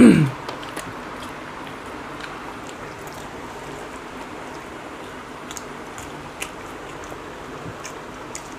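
People chewing soft bread and fried egg with their mouths closed, with faint clicks and soft squishes of bread and egg being torn by hand. Right at the start there is a brief loud sound that falls steeply in pitch.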